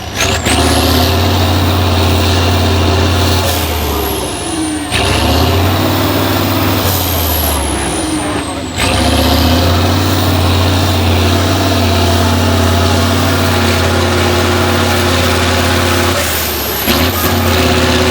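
Heavy off-road truck's diesel engine running hard under load, with a high whistle that rises and slowly falls. The engine note briefly drops out twice, about five and nine seconds in, and then comes back.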